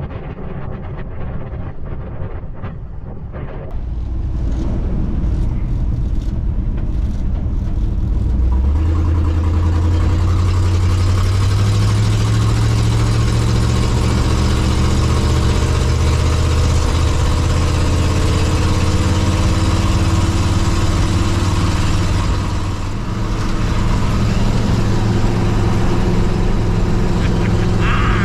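A 1954 Chevrolet pickup's engine running as the truck drives. It gets louder a few seconds in, then climbs slowly in pitch as the truck gathers speed, with a brief dip in loudness near the end before it runs steady again.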